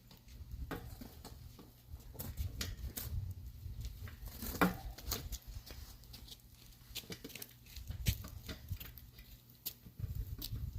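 Irregular small clicks, taps and rubbing from hands working a rubber inner tube and tire on a motorcycle wheel rim, over a low rumble.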